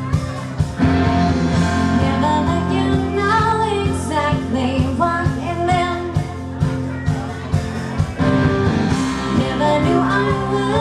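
Live rock band playing, with guitar and a steady drum beat, in a passage between the sung lines.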